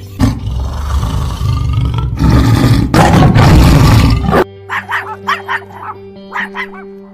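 A loud, harsh animal call that lasts about four seconds, then a run of short, sharp barking calls, about three a second, over background music.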